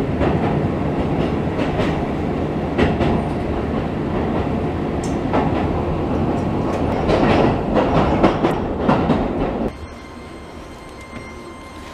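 Keisei commuter train heard from inside a car, running over the rails with a steady rumble and occasional clicks of wheels over rail joints as it draws into a station. The noise drops off sharply near the end as the train slows at the platform.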